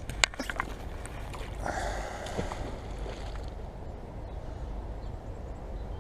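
A magnet-fishing magnet and rope being handled and thrown: a few sharp clicks at the start, then a brief splash about two seconds in as the magnet goes into the river.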